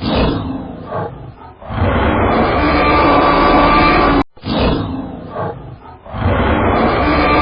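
A large animal's loud roaring call, played twice in a row: each time a few short calls lead into a sustained roar of about two and a half seconds that cuts off abruptly.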